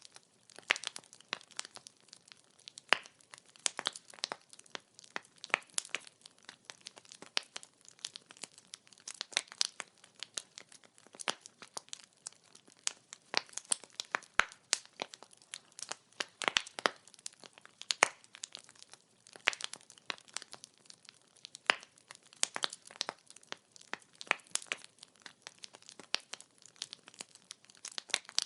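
Wood fire crackling and popping: burning firewood gives a constant scatter of irregular sharp snaps and pops, some louder than others, over a faint hiss.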